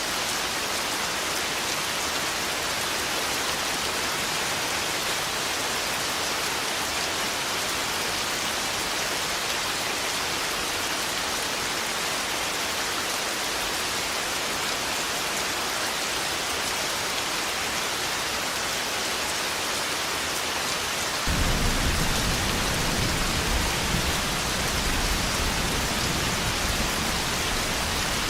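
Steady heavy rain falling on a surface. About three-quarters of the way through, a deep rumble of thunder sets in suddenly and rolls on for several seconds beneath the rain.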